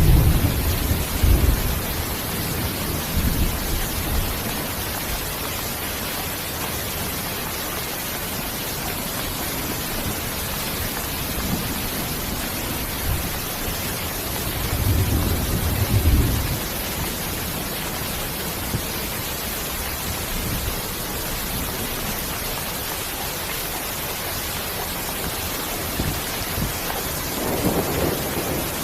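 Steady rain, an even hiss of falling water, with low rumbles swelling briefly near the start, about halfway through and near the end.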